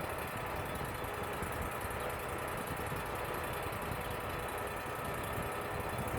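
Wood-Mizer LT35 portable band sawmill running steadily, its engine and saw drive making an even mechanical drone.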